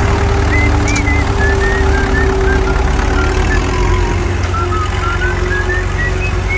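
A vehicle engine idling with a steady rumble and hum, with a thin whistled line of short gliding notes wandering up and down over it.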